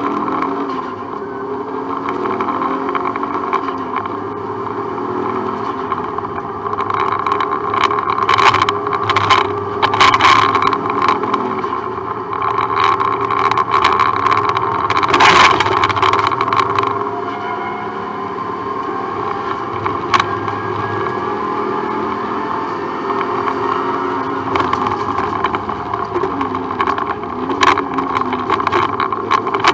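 Subaru Impreza rally car's flat-four engine running hard under load, heard from inside the cabin, its revs rising and falling through gear changes. Sharp clatters and knocks break in repeatedly, most often in the middle stretch.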